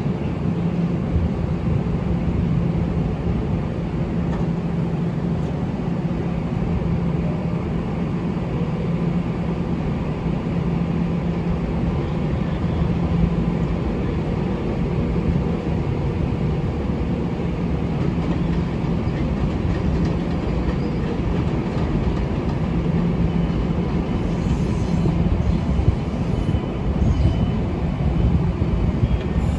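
Long Island Rail Road train passing on the tracks: a steady rumble of wheels on rail with a low hum.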